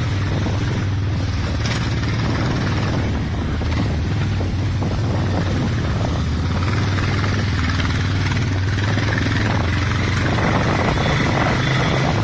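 Motorcycle engine running steadily while riding, a low even thrum under road and wind noise.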